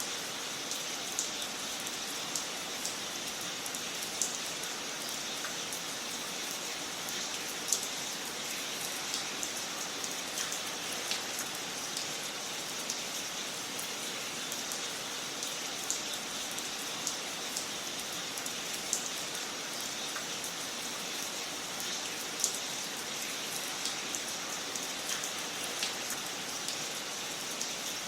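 Wood fire crackling in a fireplace: a steady hiss dotted with frequent small snaps and pops, with a few louder pops scattered through.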